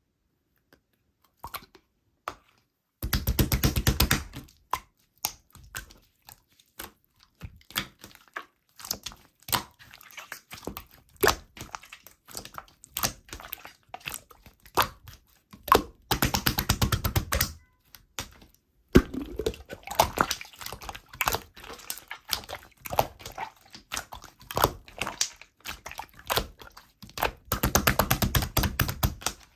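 Slime being squished, pressed and pulled by hand, giving sticky popping and crackling clicks. There are dense runs of rapid clicks three times, with scattered single pops between them.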